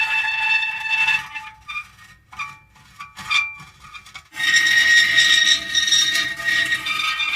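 Metal creaking: drawn-out high squeals, a quieter stretch of short creaks and ticks from about one to four seconds in, then a long squeal again.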